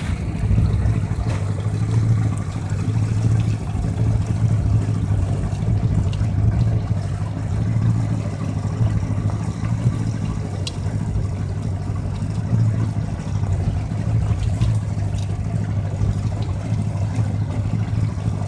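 Yamaha 115-horsepower two-stroke outboard motor running steadily at low speed, with an even low drone and no revving.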